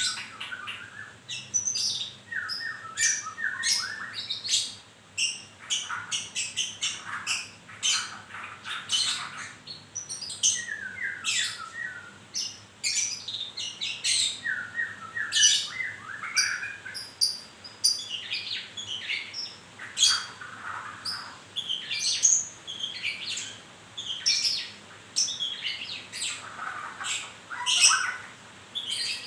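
White-rumped shama (murai batu) singing almost without pause, a varied run of sharp chips, rapid trills and whistled phrases. The bird is newly moulting.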